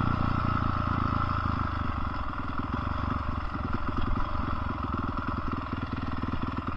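Dirt bike engine running, with a rapid, even stream of firing pulses.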